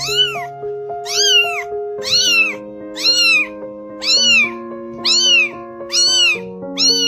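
A cat meowing over and over, about once a second, each meow rising then falling in pitch, over slow held chords of background music.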